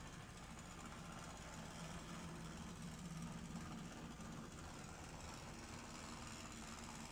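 HO-scale brass model of a Great Northern G-3 4-8-0 steam locomotive running along the track, its can motor and gearing giving a faint steady hum that swells and eases a little.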